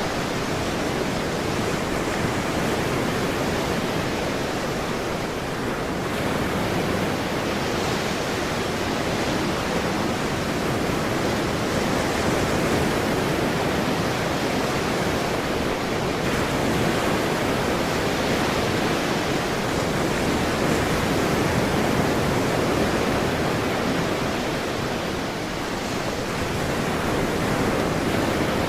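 Ocean surf: a continuous wash of breaking waves, swelling and easing gently in loudness.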